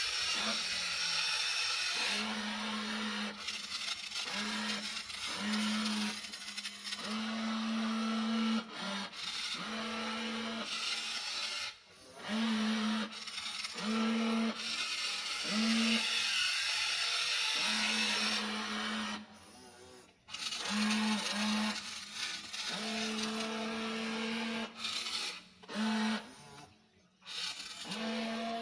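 Small electric motors of a WLtoys RC toy excavator whirring in short bursts, a whine that starts and stops every second or two as the controls are worked, over a steady hiss of gears and moving parts, with brief drops to near quiet twice near the end.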